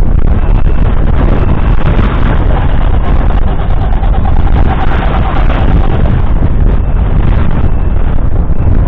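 Fendt 724 Vario's 6.1-litre six-cylinder diesel engine running steadily and loudly, the tractor working a cultivator.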